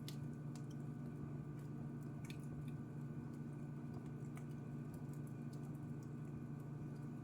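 Wood fire crackling in a fireplace: scattered sharp pops and snaps, one right at the start, over a steady low hum.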